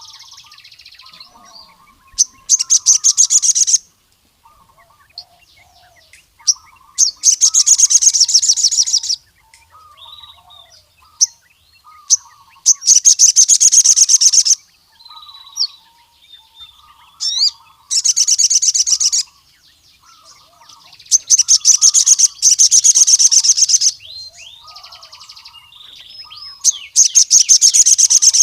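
Male sogon (sunbird) singing in full gacor form: a run of fast, rattling high trills of one to two seconds each (the 'ngkleper' song), about every four to five seconds, with short sharp chirps and softer twittering between them.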